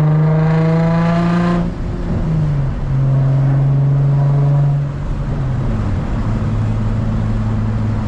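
Infiniti G35's VQ V6 exhaust with the muffler and resonator deleted, stock catalytic converters and headers, under way in gear. The note climbs slightly, breaks and glides about a second and a half in, holds steady, then settles to a lower steady drone about five seconds in.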